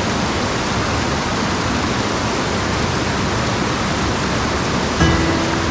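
Mountain stream's rushing water, a steady, even hiss. Plucked-string music comes in near the end.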